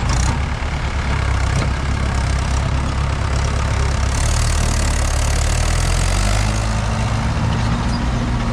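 Tractor diesel engine running steadily, its note shifting about two-thirds of the way through; a hiss lies over it for a couple of seconds midway.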